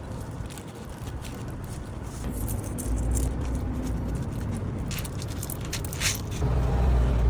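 Street noise with the low rumble of passing motor traffic, and a few short scrapes and clicks about five to six seconds in.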